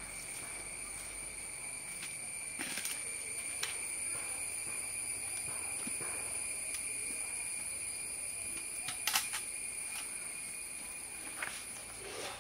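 Insects chirring steadily outdoors in a high, even drone of several pitches. A few short knocks cut in now and then, about four in all.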